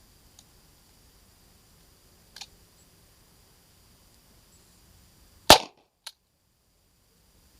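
A single shot from a USFA Zip 22 .22 LR pistol firing CCI AR Tactical ammunition, followed about half a second later by a small click of the action. Soft handling clicks come before it. The spent case fails to eject.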